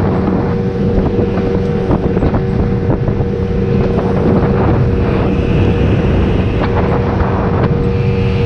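Motorboat engine running steadily under way, its drone holding an even pitch, with wind buffeting the microphone and rushing water.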